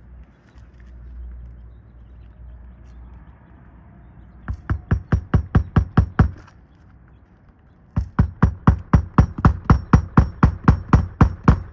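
Hand hammer rapidly striking a roofing nail into a shingle: a quick run of blows at about seven a second starting about four seconds in, a short pause, then steady rapid hammering again near the end. A low rumble underlies the first few seconds.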